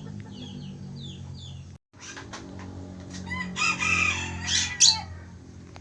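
Bird calls: a few short falling chirps, a brief dropout, then a louder run of harsh pitched calls between about three and five seconds in.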